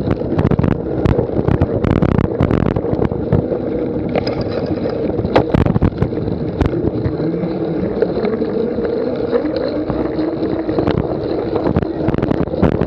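Steady wind noise on the microphone with frequent sharp knocks and rattles scattered throughout.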